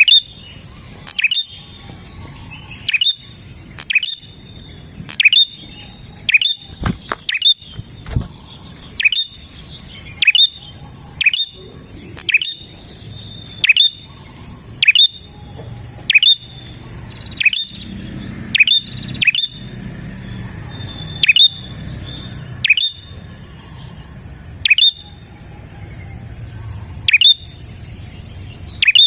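Prinia (prenjak) calling vigorously: a sharp, loud chip repeated about once a second, each note dropping quickly from a high pitch. It is the call used to lure prenjak.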